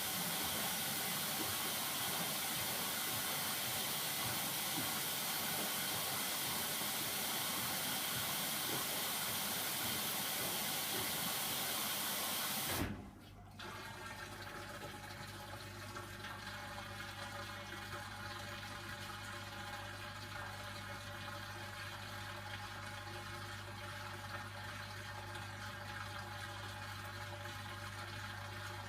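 Hoover Dynamic washing machine drawing water in through its inlet valve at the start of its service cycle: a steady rushing hiss that cuts off abruptly about 13 seconds in, leaving a quieter steady machine hum.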